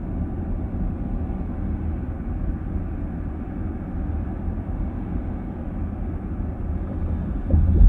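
Road and tyre rumble heard inside a moving car's cabin, steady and low. A louder low thump comes near the end.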